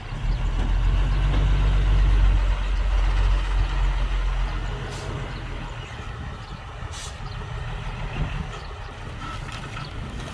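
Heavy diesel engine of a dump truck or earthmoving machine running, at its loudest for the first few seconds and then easing to a steadier, lower rumble.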